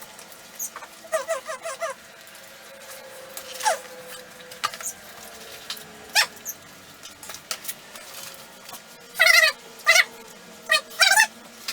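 Dog whining in short, high-pitched squeals: a quick run of four about a second in, a few single whines, then a louder cluster near the end.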